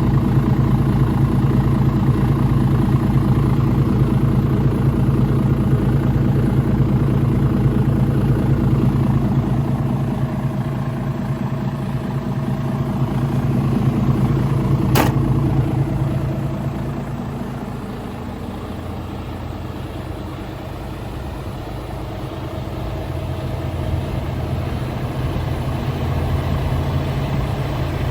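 Mercedes-Benz Arocs 2648 truck's inline-six diesel engine idling steadily, with a single sharp click about halfway through. The engine grows quieter for a few seconds after the middle, then louder again.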